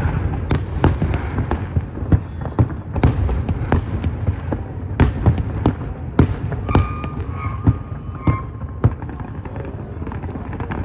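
Aerial fireworks bursting in rapid succession, a string of sharp bangs a few per second over a low rumble from the barrage.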